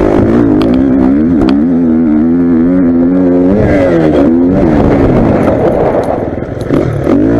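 Motocross bike engine revving hard on the track, its pitch climbing and dropping again and again as the throttle is worked and gears change, easing off briefly near the end before pulling again.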